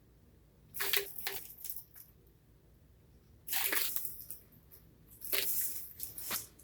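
Three short bursts of crinkling, rustling handling noise, about a second in, midway, and near the end.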